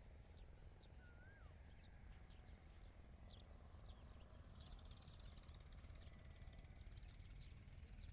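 Near silence in open farmland: faint scattered bird chirps, with one short rising-then-falling whistle about a second in, over a low steady rumble.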